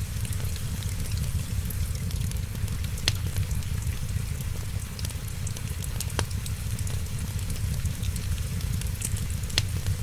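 Fireplace fire crackling over steady rain, a continuous hiss and low rumble with three sharp pops spaced a few seconds apart.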